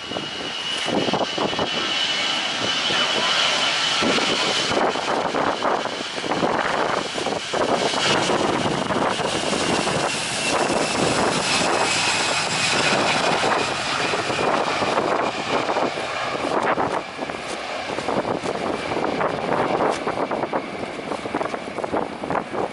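Airbus A320-200 jet engines running as the airliner passes, a loud steady rush with a high whine that slowly falls in pitch.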